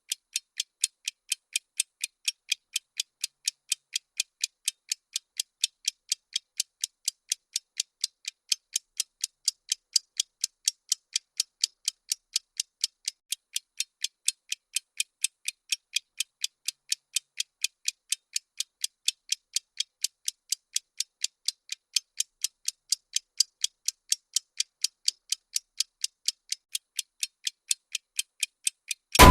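Clock-like ticking sound effect of a countdown timer: steady, sharp, high-pitched ticks at about three a second, evenly spaced.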